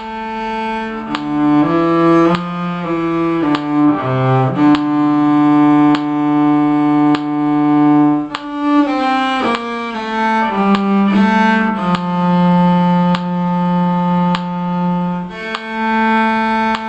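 Bowed string instrument playing a slow melody, moving through several quicker note changes and then settling on long held notes, twice over.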